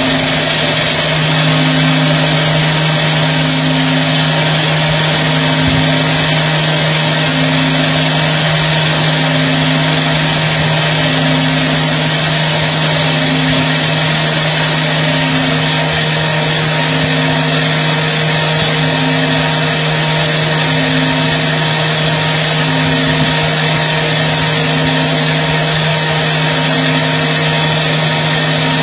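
Roll turning CNC lathe running steadily, a loud even machining noise with a low hum and a lower throb that pulses a little over a second apart.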